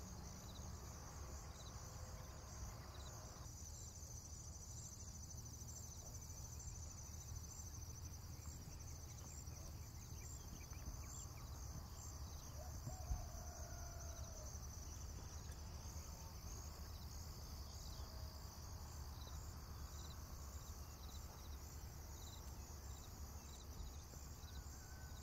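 Faint crickets chirping steadily in a high, evenly pulsing trill, over a low background hum.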